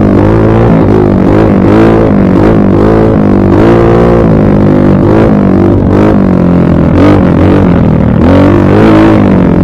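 Dirt bike engine running loud, its pitch rising and falling again and again as the throttle is opened and closed.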